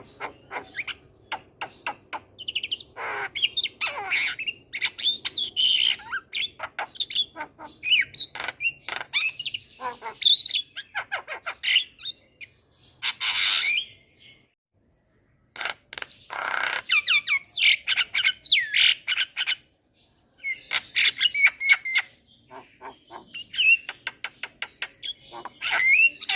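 Javan myna in full song: a busy run of chattering clicks, harsh squawks and whistled, gliding notes, broken by a pause about 14 seconds in and a shorter one about 20 seconds in.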